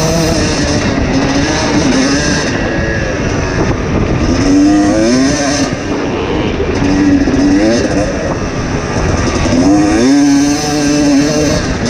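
Two-stroke dirt bike engine ridden flat out, revving up hard again and again as it is wound out through the gears, with a heavy rush of noise around it.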